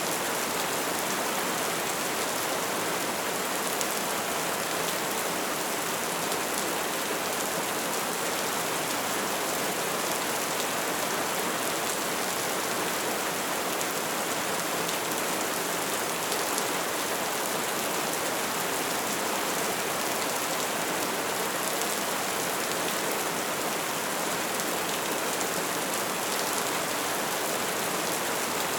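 Bonfire burning: a steady crackling hiss made of many small pops.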